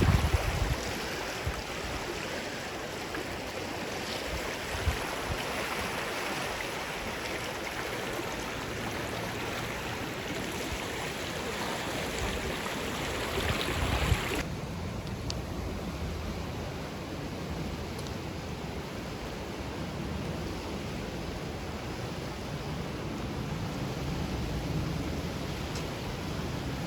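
Rushing creek rapids: a steady wash of fast water. About halfway through the sound turns duller, losing its hiss, with a low rumble coming up.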